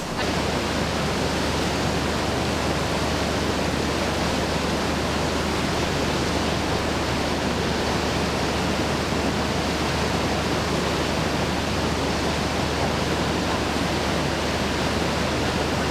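Steady rushing of whitewater at an artificial whitewater course, an even noise with a constant low rumble underneath.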